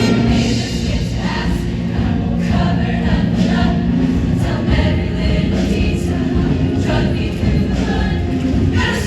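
Show choir singing with backing music, many voices together in a sustained, steady passage.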